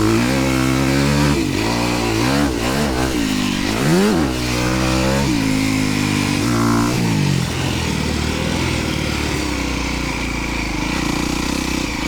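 Dirt bike engine revving up and down, its pitch climbing and dropping several times with the throttle and gear changes, one sharp rise and fall about four seconds in, then settling to a steadier, lower run for the last few seconds.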